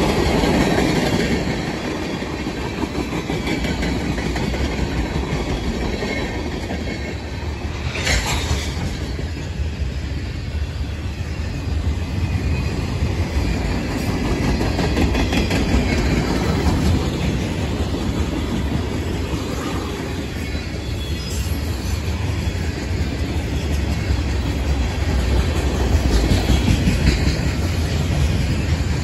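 Freight train cars, tank cars and covered hoppers, rolling steadily past on the rails, with a continuous rumble and clatter of steel wheels. There is a short, sharp metallic sound about eight seconds in.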